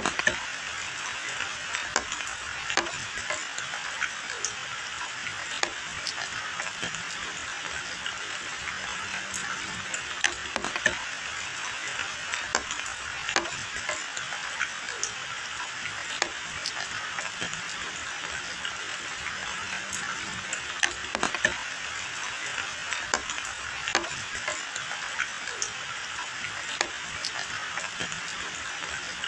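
Steady rain falling on leafy hedges and a wet lane: an even hiss dotted with frequent sharp drip splats.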